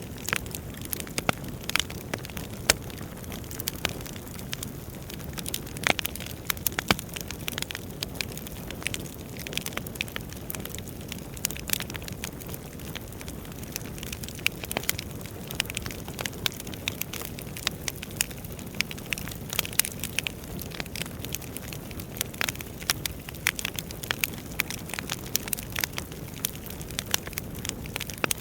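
Wood fire burning in a fireplace: a steady low rush of the flames with frequent, irregular sharp crackles and pops from the burning logs.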